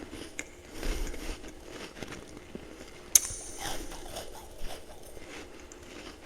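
Ice being chewed up close: quiet crackling crunches, with one sharp crack about three seconds in.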